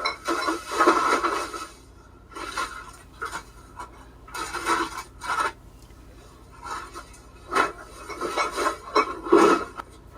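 A person breathing heavily and raggedly, in raspy breaths every second or two, labored enough to be called awful.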